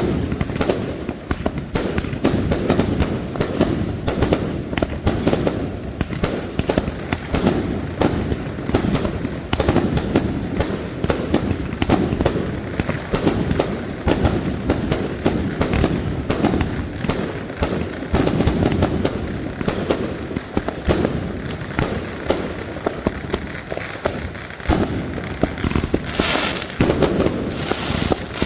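Fireworks going off in a dense, continuous barrage of rapid bangs and pops. Near the end a crackling hiss joins in.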